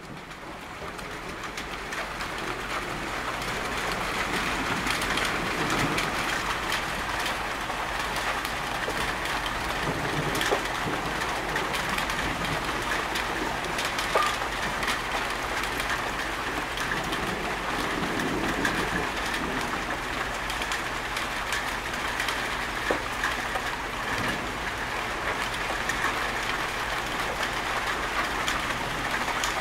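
Steady rain falling, a constant hiss with scattered drop ticks, fading in over the first few seconds. A few soft low rumbles rise and fall under it now and then.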